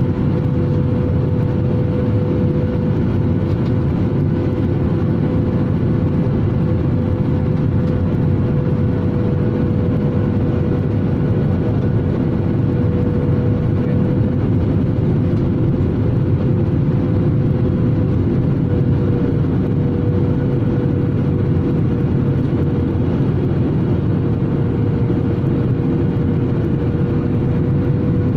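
Steady cabin noise inside an airliner in flight: an even rumble of engine and airflow noise with a steady hum on one note.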